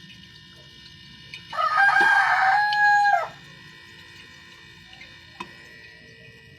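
Refrigerator compressor running with a steady hum made of several thin tones. About a second and a half in, a loud, drawn-out call lasting about two seconds rises over it, rough-textured and held on one pitch before it drops away at the end; a single click follows near the end.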